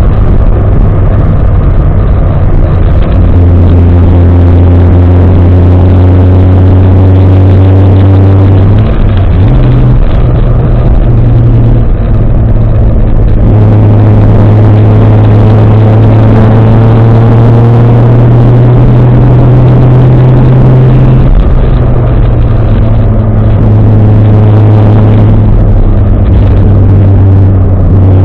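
Toyota 1JZ-GTE turbocharged inline-six in a 1993 Nissan 240SX under way, very loud. Its note climbs slowly and steps back down several times with throttle and gear changes.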